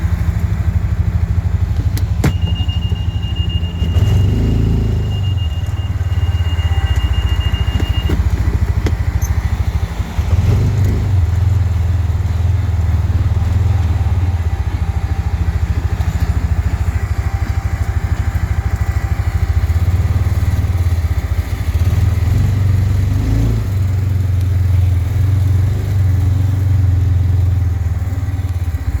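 T Boss 550 UTV engine running close by, with a steady low pulse that swells briefly a few times as the throttle is opened. A thin high beep-like tone sounds for several seconds near the start.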